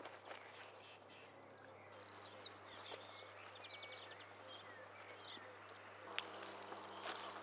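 Faint outdoor ambience with small birds chirping, including one quick trill, over a steady low hum. A few soft knocks come near the end.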